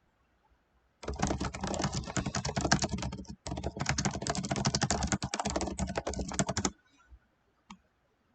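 Fast typing on a computer keyboard: a dense run of key clicks starting about a second in and lasting nearly six seconds, with a brief break in the middle.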